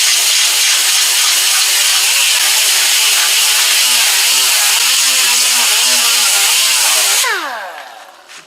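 Power grinder grinding down the welded pull spots on a car door's sheet metal after stud-welder dent pulling, its pitch wavering as the load changes. About seven seconds in it is switched off and spins down with a falling whine.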